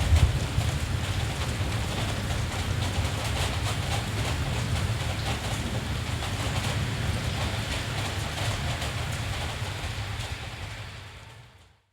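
Steady rain with a low rumble underneath, strongest about the first second and slowly easing. Near the end the whole sound fades out to almost nothing.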